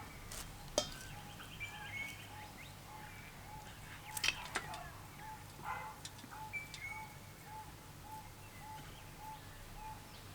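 Birds calling outdoors: a short note repeats evenly nearly twice a second, with scattered higher chirps and whistles over it and a few sharp clicks.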